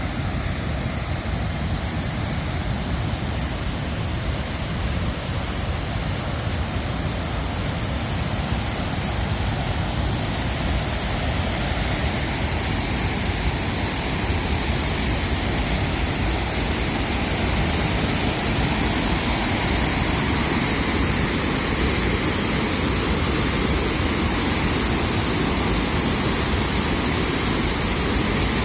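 Water rushing through the open spillway gates of the Kinnerasani dam: a steady, unbroken roar of noise that grows a little louder past the middle.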